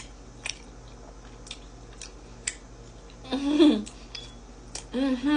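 A person chewing messy food with wet mouth clicks and lip smacks, then a voiced hum of enjoyment, falling in pitch, about three and a half seconds in, and another near the end.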